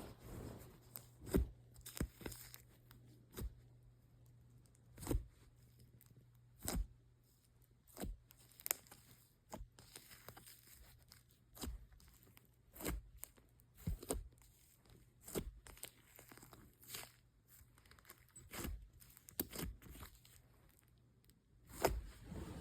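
Slime being squished and poked by hand, giving irregular sharp pops and crackles as air pockets in it burst, about one every second, over a faint steady low hum.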